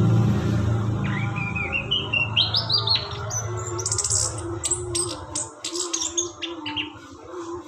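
Songbird singing: a quick run of chirps stepping up in pitch, then a string of short, sharp high notes, over a steady low hum.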